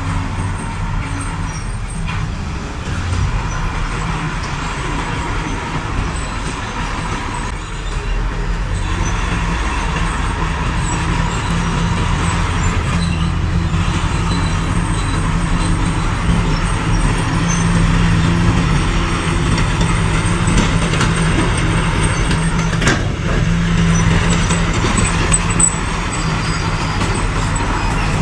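Diesel engines of heavy earthmoving machinery, a bulldozer and dump trucks, running steadily under load, growing somewhat louder about a third of the way in.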